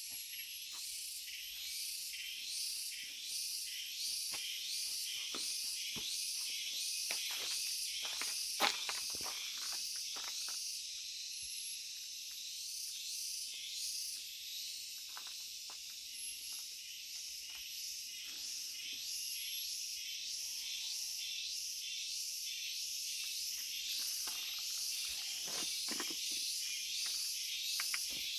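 Dense, high-pitched rainforest insect chorus that pulses evenly a few times a second, with a few faint knocks now and then.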